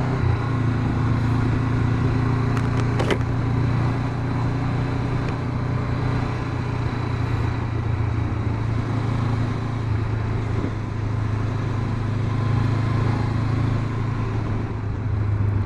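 Honda CB500X motorcycle's parallel-twin engine running at a steady, even pitch while riding along an asphalt road, with a haze of road and wind noise.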